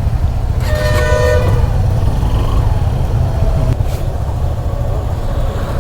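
A vehicle horn sounds once, briefly, about half a second in, over a steady low rumble of traffic and engine noise.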